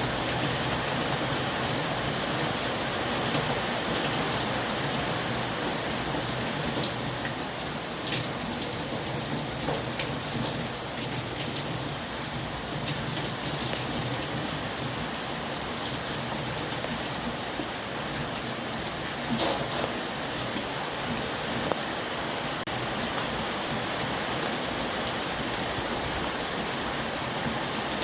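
Heavy rain falling steadily, with scattered sharper drops ticking on a surface.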